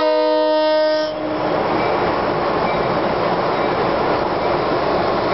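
NJ Transit ALP-44 electric locomotive sounding its multi-tone horn, which cuts off about a second in, followed by the steady rumble of the train rolling in along the platform.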